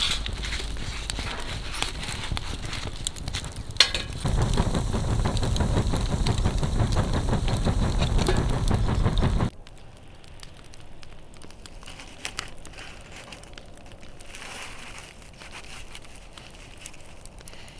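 Bonfire of fallen leaves crackling, with a steady low rumble under the crackle; about nine and a half seconds in the sound drops abruptly to a much quieter, fainter crackle.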